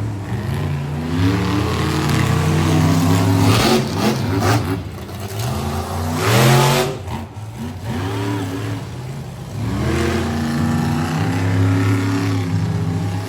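Monster truck engines revving hard, their pitch climbing and falling again and again, with louder blasts about four and six and a half seconds in.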